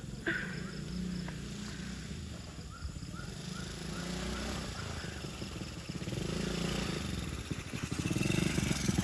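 Small motocross bike engine running on a dirt track, getting louder over the last second or so as it comes closer.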